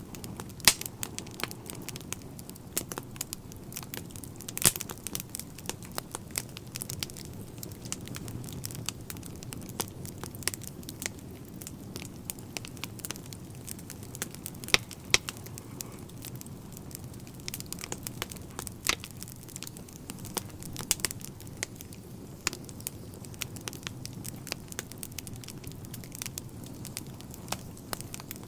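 Wood fire burning in a fireplace: a steady low rumble of the flames with constant irregular crackling of the logs and an occasional louder pop.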